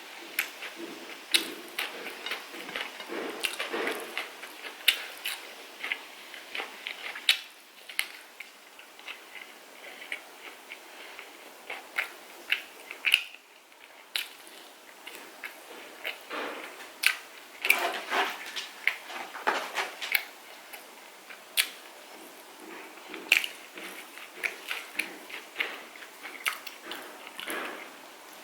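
Close-up eating sounds of chicken curry being chewed and bitten: irregular wet mouth clicks and smacks, with a short pause about halfway through.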